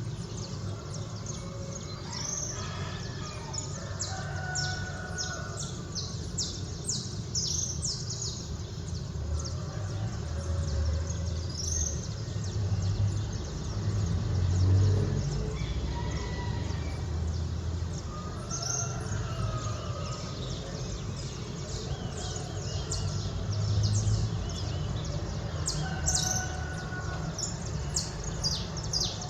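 Small birds chirping over and over in quick, short high calls, with a few longer rising-and-falling calls among them, over a steady low background rumble.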